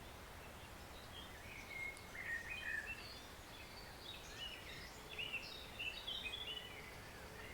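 Songbirds singing in woodland over the steady low rush of a stream. There are two bursts of quick, varied chirping phrases, one about two seconds in and a busier one from about five seconds in.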